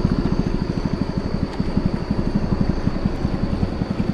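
A river boat's engine running steadily underway, a rapid low pulsing.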